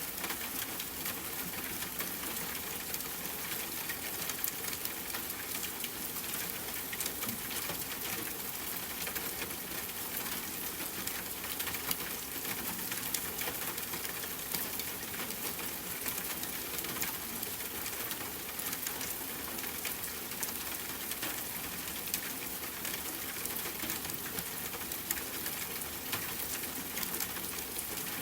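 Steady rainfall mixed with a crackling wood fire: an even hiss of rain dotted throughout with many small, sharp pops and crackles.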